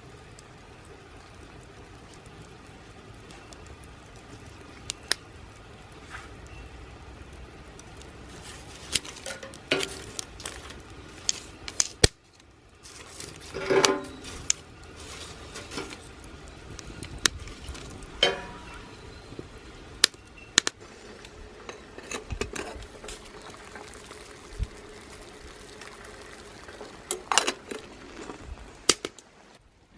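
Wood fire burning under a homemade fire dome, with scattered sharp crackles and knocks over a steady low rumble, and now and then the clink of metal cookware. The sound breaks off abruptly about twelve seconds in and again near the end.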